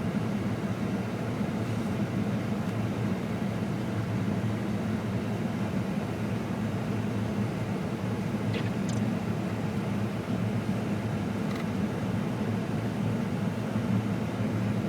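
Steady low drone of a 2006 Ford F-150 pickup driving along, engine and road noise heard from inside the cab, with a couple of faint short chirps near the middle.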